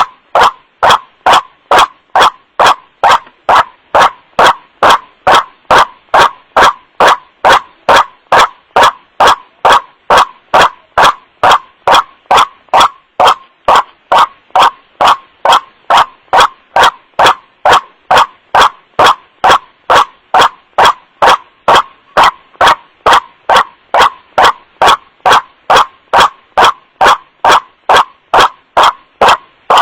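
White-breasted waterhen's 'wak-wak' (kru-ak) call, played as a looped lure recording: a loud, steady, unbroken series of short harsh calls at about one and a half a second, pushed to clipping.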